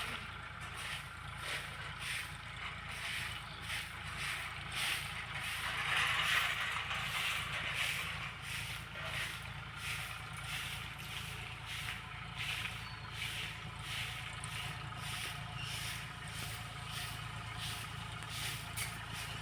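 Tractor engine running steadily while it drives a crop sprayer, with a hiss over it and an even pulsing about twice a second.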